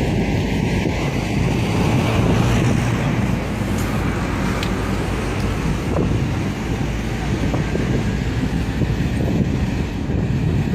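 Steady loud rushing noise, heaviest at the low end, like wind buffeting the microphone, with a couple of faint sharp clicks about four and six seconds in.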